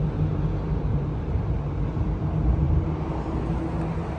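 A car engine idling with a steady low rumble and hum.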